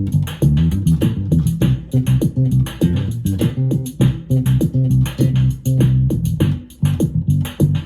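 Electric bass played through a Roland Micro Cube Bass RX amp, an improvised bassline over the amp's built-in drum-machine rhythm pattern keeping a steady beat.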